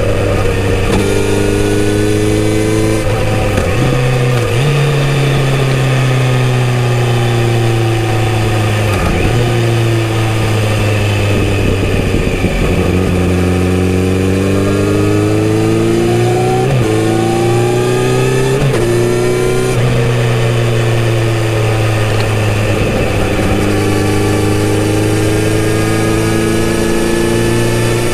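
Kawasaki Z900RS inline-four with a full-system exhaust, heard while riding. The engine note climbs and falls as the bike speeds up and slows, with several sudden drops in pitch at gear changes.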